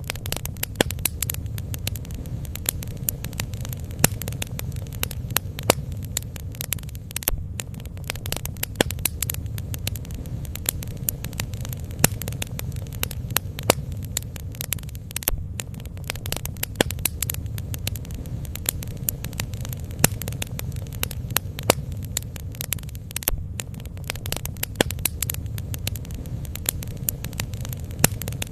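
Bonfire crackling: irregular sharp pops and snaps from the burning wood over a steady low rumble.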